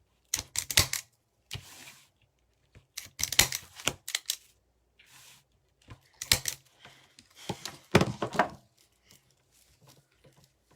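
Zip ties on a wreath frame being cut, in several short bursts of sharp clicks and snaps with quiet gaps between them.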